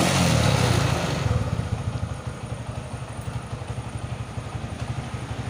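Motorcycle engine running at raised revs for about a second, then dropping back and settling into a steady, evenly pulsing idle.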